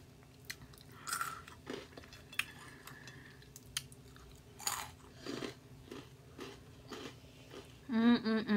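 Crunching and chewing of hot Cheetos dipped in nacho cheese sauce, a string of irregular crisp crunches as each piece is bitten and chewed. A brief voiced sound comes near the end.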